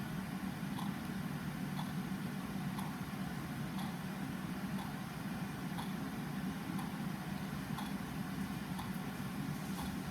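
Clock ticking about once a second, faint, over a steady low rumble of background ambience.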